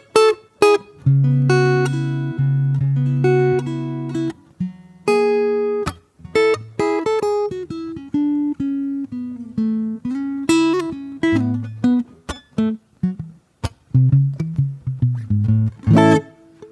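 Solo acoustic guitar playing a slow improvisation: single plucked notes and chords that ring and fade, with brief pauses between phrases and a few quick strummed strokes near the end.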